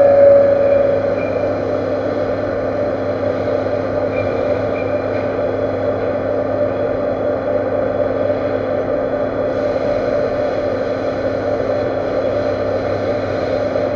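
Workshop machinery running with a steady drone and hum. A louder tone fades out in the first second.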